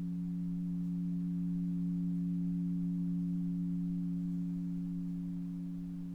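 Two sustained pure tones ring together, a low one and a higher one, held steady with no attack, then slowly fading near the end.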